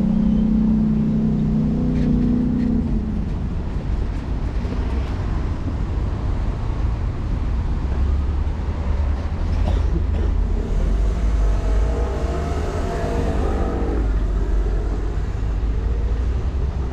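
City tram running, heard from inside the car: a steady rumble of wheels on the rails. A pitched electric hum stops about three seconds in, and a whine rises and falls between about ten and fourteen seconds.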